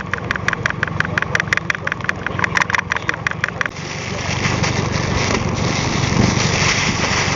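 Boat engine running at idle, with rapid even ticking, about seven ticks a second, that stops about three and a half seconds in; a rushing noise then rises over it.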